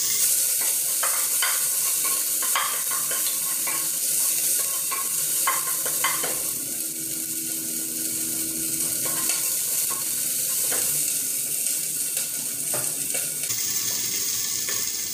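Chopped onions frying in hot oil in a pressure cooker pan, sizzling steadily, while a wooden spatula stirs them with scattered scrapes and knocks against the pot.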